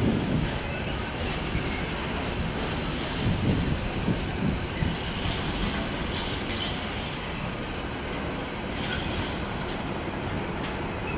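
Intermodal container wagons of a freight train rolling past: a steady rumble and rattle of steel wheels on the rails, with a few heavier thumps in the first half.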